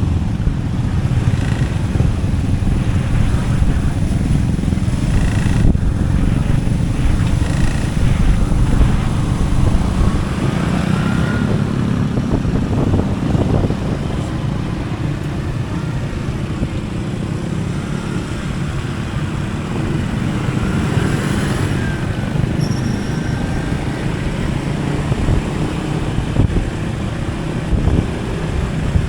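Motorcycle engine and road noise while riding, a steady low rumble throughout.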